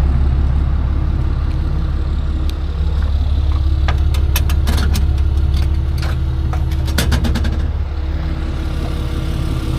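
Truck engine idling steadily with a low hum. Midway through, a run of sharp metallic clicks and rattles sounds over it.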